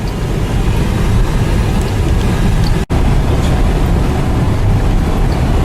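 Steady low rumble of a car driving, with road and wind noise. The sound breaks off for an instant about three seconds in.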